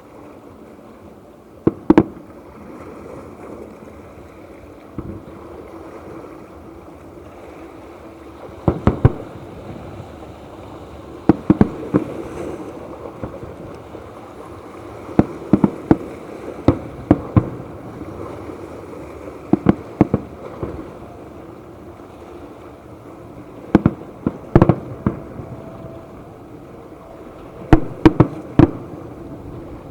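Aerial firework shells bursting in quick clusters of sharp bangs, every few seconds, over a steady background hiss. The loudest bursts come near the end.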